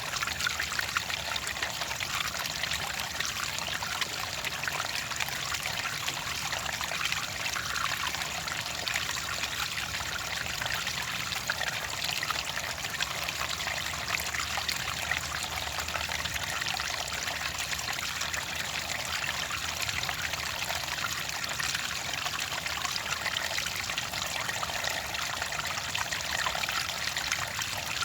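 Clear water trickling and pouring steadily, a continuous splashing babble with no pauses.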